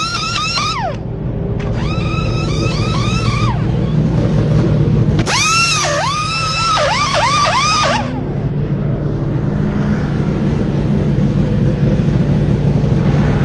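Race car engine running steadily, with three bursts of quick rising-and-falling high whines from the pit crew's wheel guns during a tyre change.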